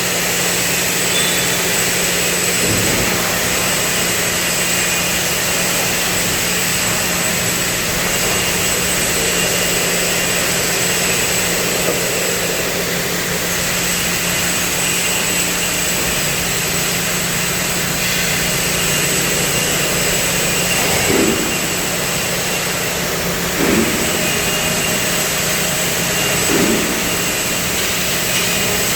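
Steady loud roaring hiss with a constant hum, from a CNC cutting machine's torch cutting steel. A few brief louder swells come in the last third.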